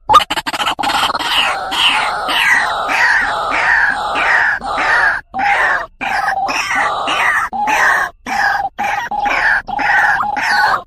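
White-breasted waterhen (ruak-ruak) calling: a fast, continuous run of repeated croaking notes, about two a second, with a few brief breaks. This is the call used to lure a male waterhen.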